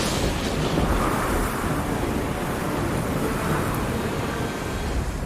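Storm sound effect: a steady roar of heavy rain and wind, with a sudden crack of thunder right at the start.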